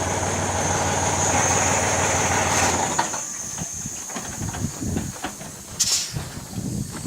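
A vehicle engine runs steadily with a high whine, then shuts off about three seconds in. Scattered low knocks and clunks follow, with a short hissing burst near the end.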